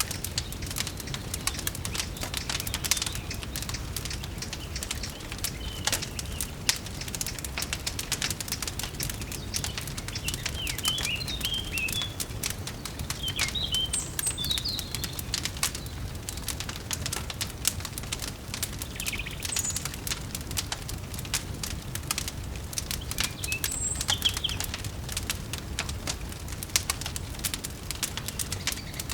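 Wood fire crackling and popping over a low rumble, with small birds chirping in short bursts, mostly in the middle and later part.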